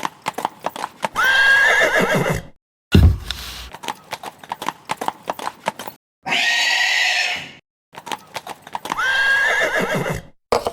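Horse hooves clip-clopping, broken by three loud whinnies, the first about a second in, then near the middle and near the end. A short low thud comes about three seconds in.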